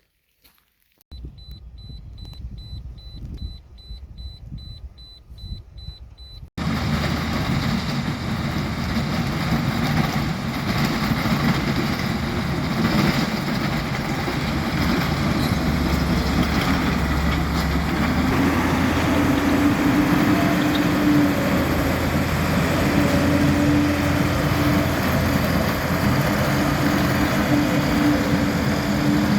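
Steady loud rush of a waterfall's falling water, starting suddenly a few seconds in after a quieter low rumble.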